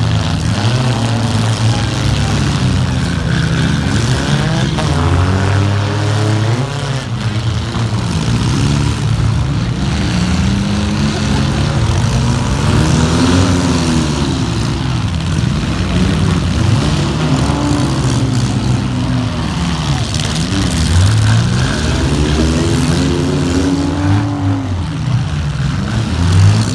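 Several demolition derby cars' engines revving up and dropping back again and again, over a steady low engine drone.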